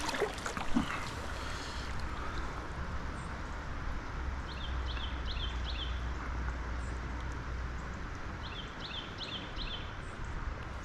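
Steady rush of flowing river water. A small bird calls twice, each time a quick run of four short high chirps.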